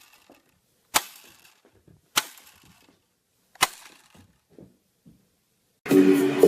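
Three sharp knocks or bangs, a little over a second apart, each dying away quickly; music starts suddenly near the end.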